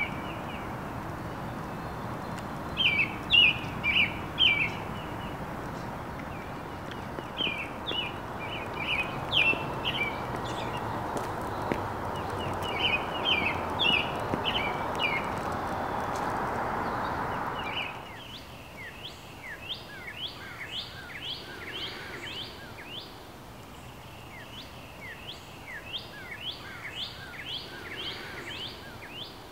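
Songbirds chirping in short bursts of sharp, high calls over a steady background noise, which cuts off abruptly about two-thirds of the way through. After that, quick series of downward-sweeping chirps continue over a quieter background.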